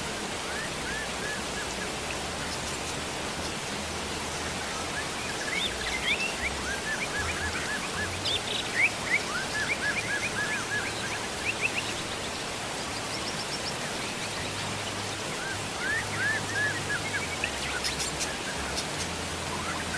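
Steady rain hiss with birds chirping over it: several runs of short, quick chirps, busiest from about five to eleven seconds in and again near the end.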